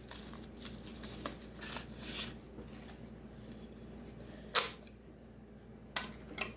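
Handling noises: a handful of short rustles and clicks, with the sharpest one about halfway through.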